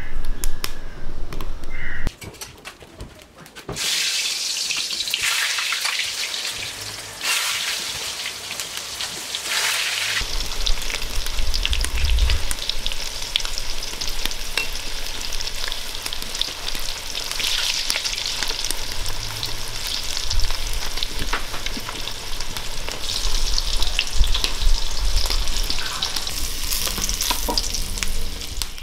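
Pieces of karaila (bitter melon) frying in hot oil in a large aluminium pot, a loud steady sizzle that starts about four seconds in. A metal spoon stirs and knocks against the pot now and then.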